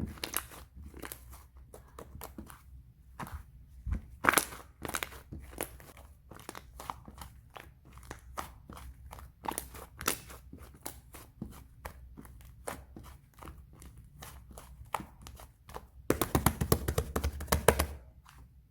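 Chocolate-coloured clay slime being squeezed and pressed by hand, giving scattered sticky clicks and pops, then a dense run of crackling for about two seconds near the end.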